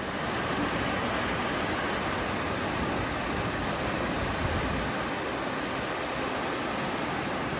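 Rushing creek water: a steady, even rush of a cascade or rapids.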